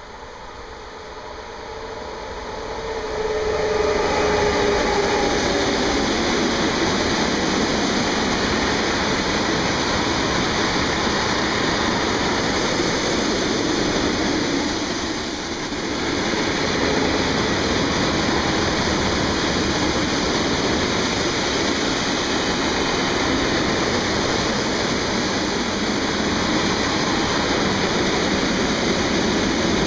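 DB Class 152 electric locomotive approaching and passing, growing louder over the first few seconds with a short falling whine, then a long string of empty ore hopper wagons rolling past with steady wheel and rail rumble. Two brief high squeals come from the wheels, about halfway through and again near the end.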